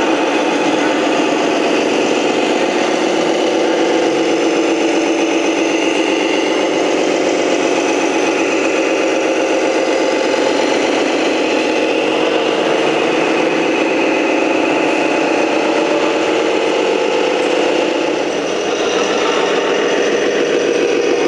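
Steady engine sound from a Tamiya Scania radio-controlled model, running at an even pitch with a brief dip in level near the end.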